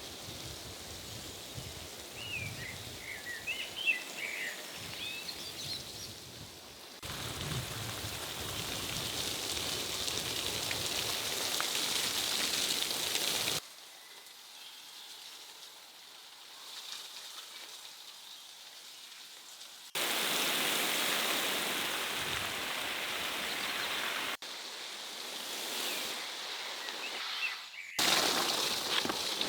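Steady outdoor water noise, like rain or running floodwater, that changes level abruptly several times. Several short bird chirps come a few seconds in.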